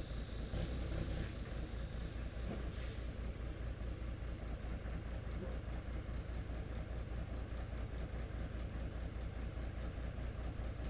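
Heavy diesel truck engine idling with a steady low throb, with a short hiss about three seconds in.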